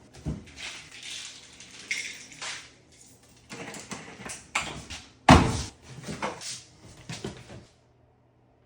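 Household knocks and clatters, like cupboard doors and things being handled, a string of separate thuds and rattles with the loudest about five seconds in. It drops to almost nothing near the end.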